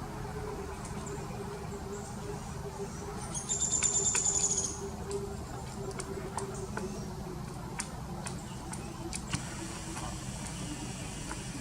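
Pileated woodpecker pecking and knocking bark loose: scattered sharp, irregular taps from about five seconds in. Before them a high, thin call lasts about a second, over a steady low hum.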